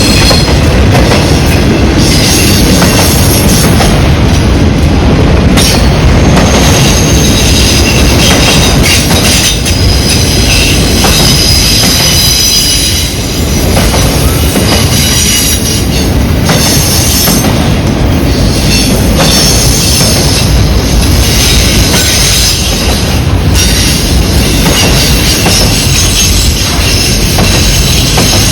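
Freight cars rolling past close by, a steady rumble and clatter of steel wheels on rail with high-pitched wheel squeal over it, typical of wheels taking a curve.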